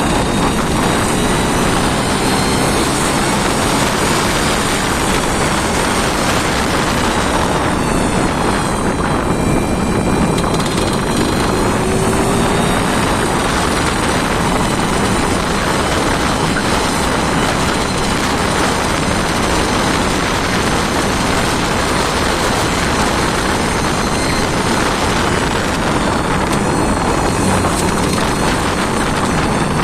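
An engine running steadily at a constant speed, loud and even throughout.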